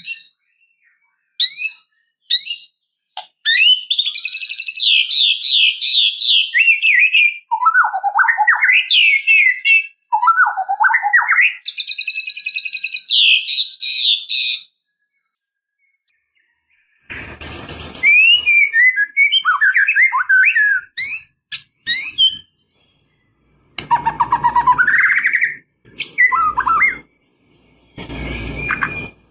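White-rumped shama (murai batu) singing: short high whistles, then long runs of rapid trilled and warbled phrases that jump between high and lower pitches. The song stops for about two seconds past the middle, then resumes with more varied phrases over a faint background rumble.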